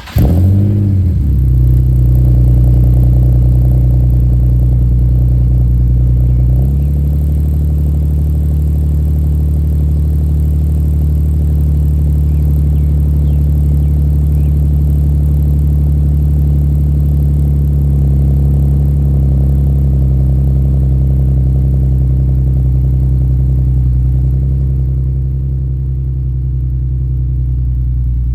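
Nissan 370Z's 3.7-litre V6 running through longtube headers and a 3-inch true dual catback exhaust just after starting. The revs flare briefly, then settle into a steady idle, and the idle note shifts about seven seconds in.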